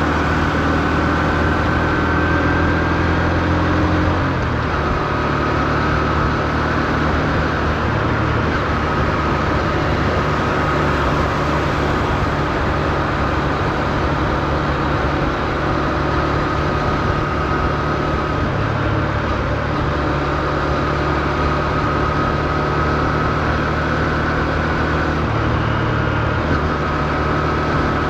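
2024 Honda CB125F's single-cylinder engine running at low revs under way, held below high RPM while it is being run in. Its low note shifts about four seconds in, then stays steady.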